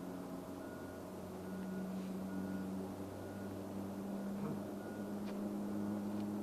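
Airbus A350 jet engines running at low power, a steady hum with a low drone that grows a little louder about one and a half seconds in.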